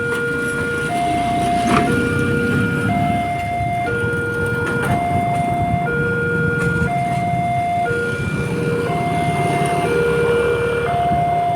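Railway level crossing warning alarm sounding as the barrier comes down: an electronic two-tone signal alternating high and low about once a second, over the low rumble of road traffic.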